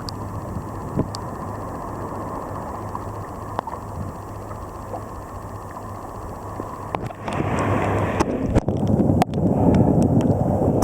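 Surf and water rushing, with wind buffeting the microphone. It grows louder about seven seconds in and again near the end.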